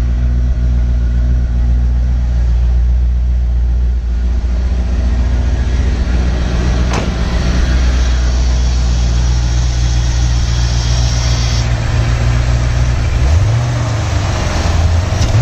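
1986 Chevrolet Corvette C4's 5.7-litre Tuned Port Injection V8 idling steadily, still cold shortly after a cold start. A single sharp knock comes about seven seconds in, and the idle note shifts briefly near the end.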